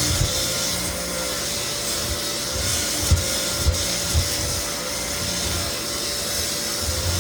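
Lagler Flip belt floor sander running steadily over a white oak floor, the abrasive belt scraping the wood to level cupped boards, with its motor hum and a few low thuds.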